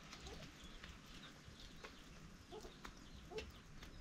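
Faint, scattered short bird calls and chirps, a second or so apart, with a few light clicks, over a quiet background.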